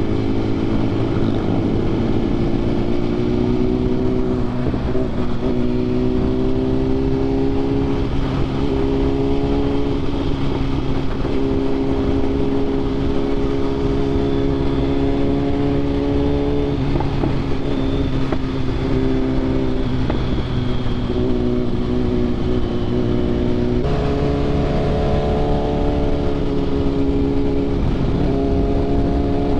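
Motorcycle engine, a BMW S1000RR inline-four with aftermarket titanium headers and exhaust, pulling at riding speed. Its note holds or climbs a little and then steps to a new pitch several times, as with gear changes and throttle changes, and settles on a higher note near the end. Steady wind noise runs underneath.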